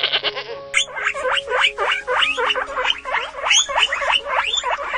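A small animal squeaking rapidly: a run of short, high calls, each sweeping sharply in pitch, several a second, starting about a second in. Background music plays throughout.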